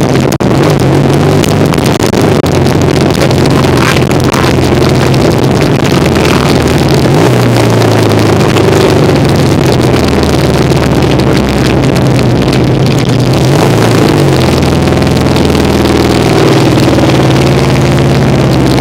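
1975 Kawasaki KZ400 cafe racer's parallel-twin engine running while riding, its pitch shifting up and down with the throttle several times.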